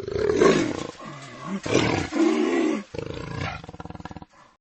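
Jaguar roaring: a series of rough, grating calls, the loudest about half a second and two seconds in, fading out a little after four seconds.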